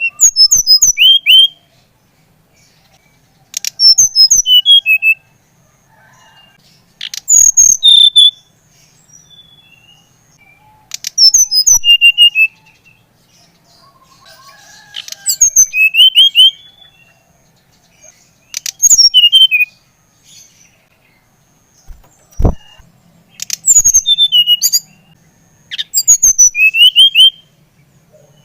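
A brown-chested jungle flycatcher (SRDC) sings short phrases of high, quickly rising and falling whistled notes, one about every four seconds, each opening with sharp clicks. A single sharp knock comes about two-thirds of the way through.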